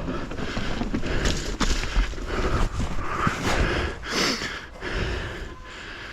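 Mountain bike riding down a wet, rough trail: tyre rumble over dirt and roots with frequent knocks and rattles from the bike, and wind on the helmet camera's microphone, easing off near the end.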